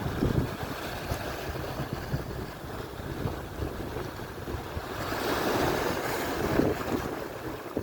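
Atlantic surf washing onto the shore, with wind buffeting the microphone; a wave swells louder about five seconds in and then draws back.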